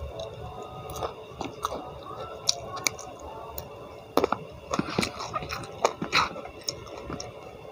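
Close-miked chewing and biting of a mouthful of food eaten by hand, with irregular crisp clicks and crunches.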